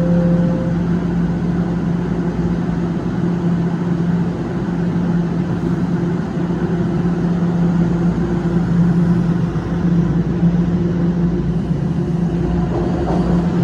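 TTC Line 1 Toronto Rocket subway train pulling out after its doors close: a steady low hum over a rumble.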